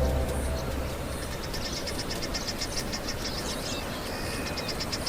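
Orchestral music with timpani fades out in the first second, giving way to outdoor wildlife ambience: rapid, high, repeated chirping calls over a steady background hiss.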